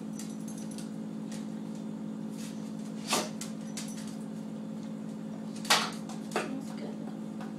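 A blue pit bull sneezing, set off by the smell of incense: a sharp sneeze about three seconds in, a louder one near six seconds and a smaller one just after, over a steady low hum.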